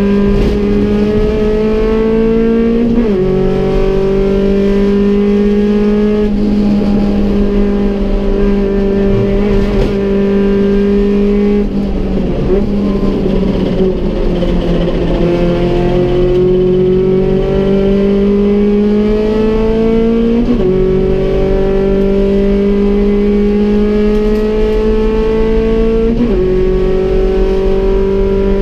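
Rover 100 (Metro) race car's engine heard from inside the cabin, pulling hard through the gears. The note climbs steadily within each gear and drops sharply at the upshifts, about three seconds in and twice near the end. Midway the note falls and turns uneven before it climbs again.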